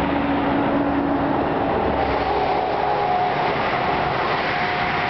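Steady rush of freeway traffic, with a faint low hum for the first couple of seconds.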